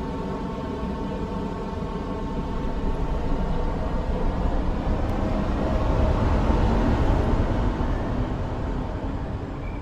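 New York City subway train on the IRT line running by, a steady rumble of wheels on rail with a faint motor whine, growing louder to a peak about six or seven seconds in and then fading.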